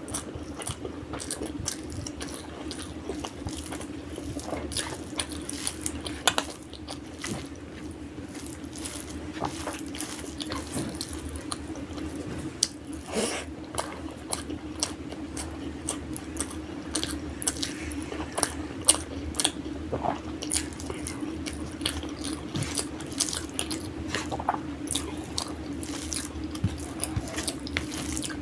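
Close-up eating sounds: chewing with frequent wet mouth clicks and lip smacks, over a steady low hum.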